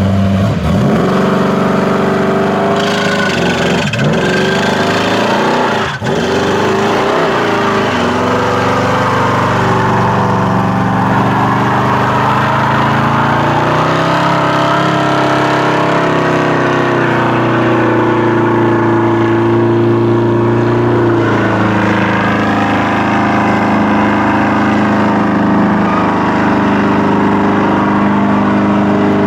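Car engine revving hard, with sharp drops and recoveries in pitch about half a second, four and six seconds in, then held at high revs for the rest, its pitch drifting slowly.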